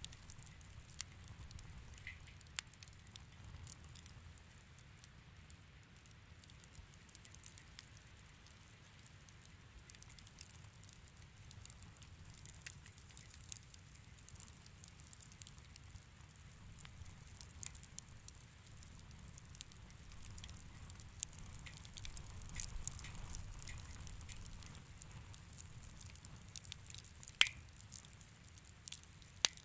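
Wood fire crackling in a fireplace: scattered small snaps and pops over a low rumble of the flames, with a sharper pop near the end.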